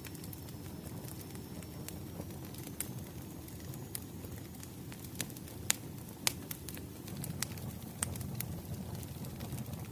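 Wood fire crackling: a low steady rumble of burning logs with scattered sharp pops, the two loudest a little past halfway.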